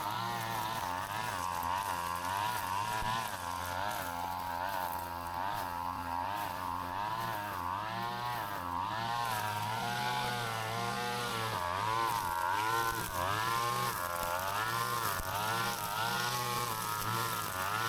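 Two-stroke brush cutter engine running, its pitch rising and falling about once a second as the throttle and cutting load change.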